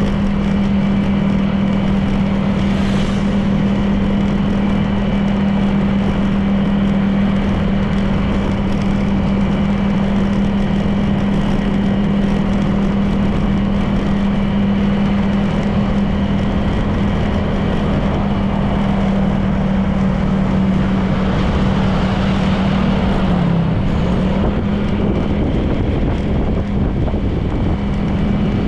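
Honda PCX 160 scooter's single-cylinder engine running at a steady cruising speed with a steady hum, its pitch dipping briefly near the end as the throttle eases, over wind rushing past the camera microphone.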